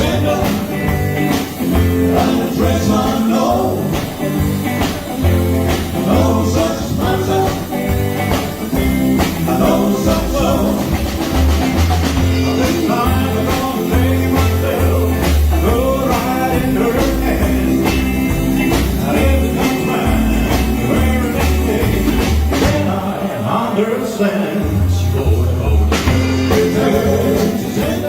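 Band playing fifties-style rock and roll with a steady beat.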